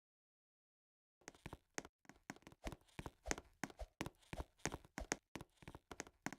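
Faint, irregular taps and knocks, several a second, starting about a second in after dead silence.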